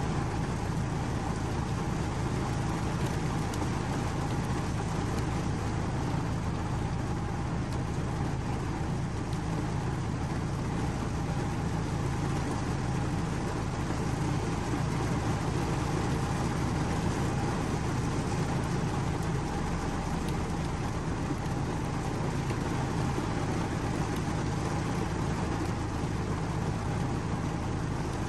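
Steady rain, an even hiss with a low rumble underneath and no single drops or gaps standing out.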